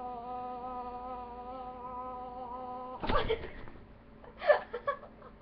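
A person humming one steady, held note at the dog, the second of a series of sounds meant to annoy it. About three seconds in the hum breaks off in a sudden burst of noise, and a few short, sharp sounds follow.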